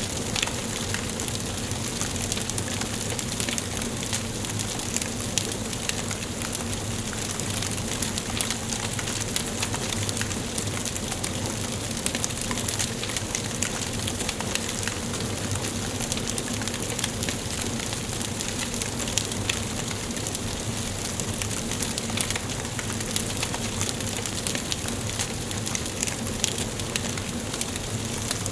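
Wood fire burning in a fireplace, crackling steadily with many small pops and snaps over a soft hiss.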